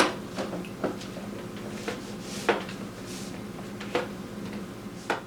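Welding helmet being handled: a series of light knocks and clicks, the first the loudest, over a steady low hum.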